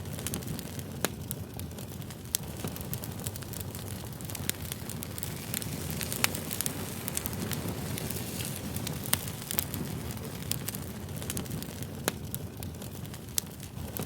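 Campfire burning: a steady low rush of flames with frequent sharp, irregular crackles and pops of burning wood.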